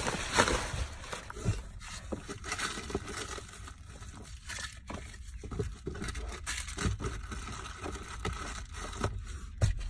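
Rummaging through clutter in a car's front seat: irregular rustles, scrapes and light knocks of paper and small items being handled.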